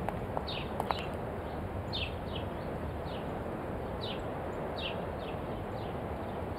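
Birds chirping in short, falling chirps, often in pairs, every half second to a second, over a steady outdoor background hush.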